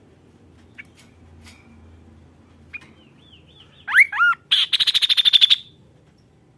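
Kaso-kaso bird singing: a few faint chips, then two loud swooping whistled notes, followed by a fast, harsh rattling trill of about ten pulses a second that lasts about a second.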